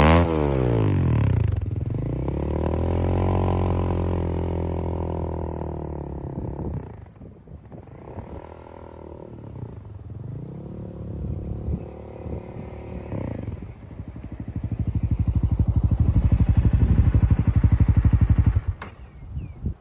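Honda CBR300R single-cylinder engine through a Yoshimura R77 slip-on exhaust, revved on the stand. A quick rev, then a slow rise and fall, drops to idle, revs again, and near the end is held high for about four seconds, the loudest part, before cutting back sharply.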